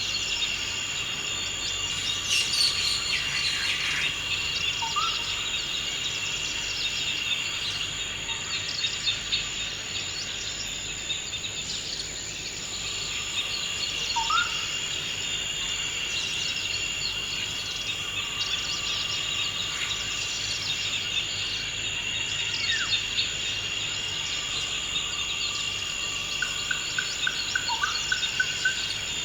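Forest ambience: a steady, high insect trill, with short bird chirps now and then. A quick run of repeated bird notes comes near the end.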